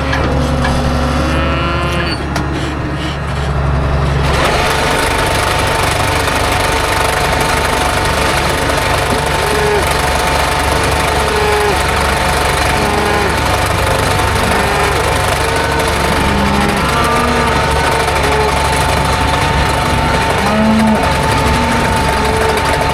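Farm vehicle engine running while driving. About four seconds in it gets louder and rougher, with a steady whine over it.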